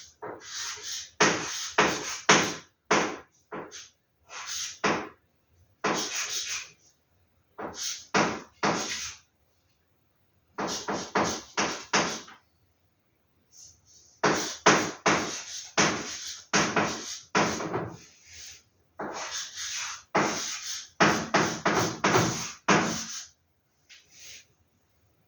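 Paper and packaging being handled: irregular bursts of rustling and crinkling, a fraction of a second to about a second each, with short pauses between them.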